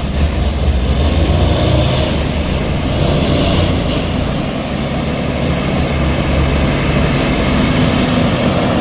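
Motor vehicle engine running steadily, a low drone under road noise.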